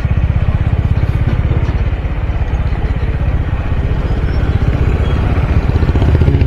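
Honda H'ness CB350's air-cooled single-cylinder engine running at low road speed, its exhaust note an even, rapid low beat.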